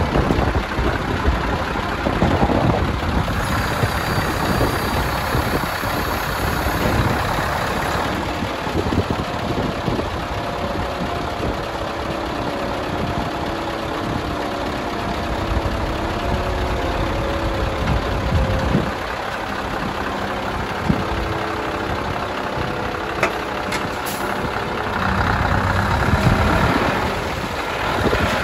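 Scania R500's 16-litre V8 diesel engine idling steadily.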